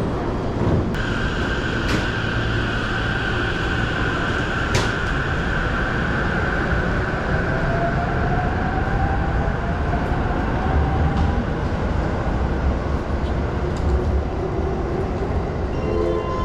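JR Musashino Line electric commuter train pulling out of the platform with a steady rumble. Its motor whine rises slowly in pitch as it gathers speed, over a steady high tone, with a couple of sharp clicks in the first five seconds.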